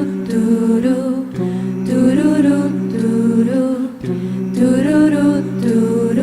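A cappella vocal group singing wordless harmony: steady low held notes under a melody, in a phrase that repeats about every two and a half seconds.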